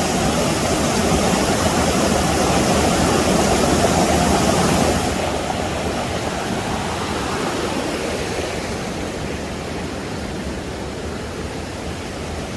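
Small waterfall pouring into a stream: a steady rush of falling water that turns duller and slowly quieter about five seconds in.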